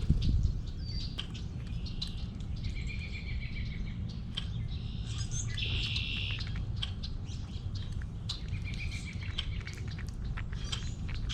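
Small birds chirping, with short buzzy trills a few times, over a steady low rumble.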